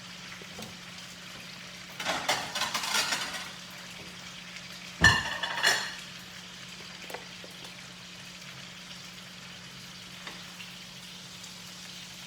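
Breaded chicken cutlets frying in oil in a pan with a steady, faint sizzle. About two seconds in there is a second of clattering kitchenware, and about five seconds in two sharp, loud clanks of dishes or utensils.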